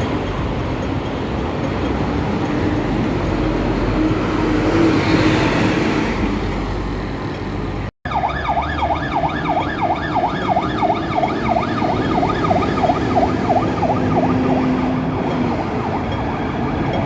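Road traffic with a vehicle passing, loudest about five seconds in. After a cut, an emergency vehicle's siren wails in a fast up-and-down yelp, about three sweeps a second, over traffic noise, stopping about two seconds before the end.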